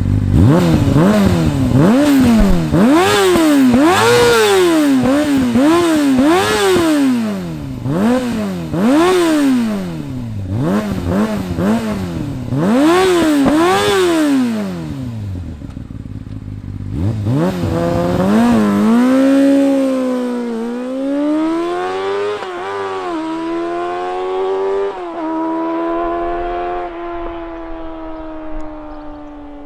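2003 Yamaha YZF-R6's 600cc inline-four revving through an Akrapovic exhaust with the dB killer removed: for the first half, a run of quick throttle blips, each rev rising and falling within about a second. After that come longer, slower climbs through the revs, ending on a slowly falling note.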